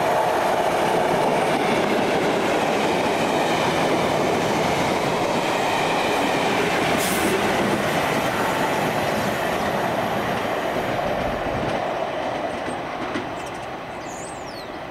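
Class 73/9 locomotive-hauled test train running through the station: a steady rumble of wheels on rail from the locomotives and coaches as they pass, fading away over the last few seconds.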